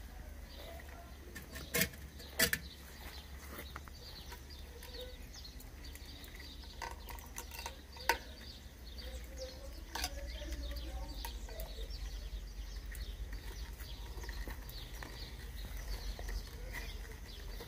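Small birds chirping on and off in the background over a steady low rumble on the microphone. A few sharp knocks stand out, the loudest about two and two and a half seconds in, and others around eight and ten seconds.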